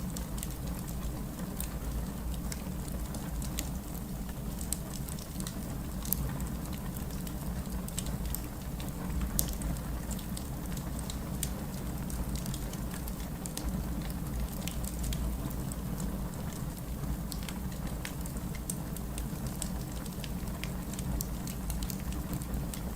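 Steady rain with a crackling wood fire: a continuous low rush of rain under frequent sharp pops and snaps from the burning logs.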